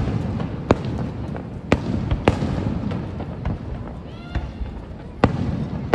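Distant aerial fireworks bursting: a string of sharp bangs over a low rumble, the loudest about two seconds in and again near the end.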